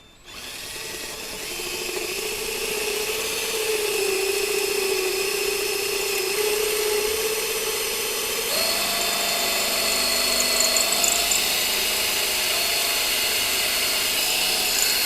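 Bauer right-angle drill running under load, drilling out a broken bolt with a 1/4-inch bit for a thread insert. The motor whine is steady, then steps up in pitch about halfway through.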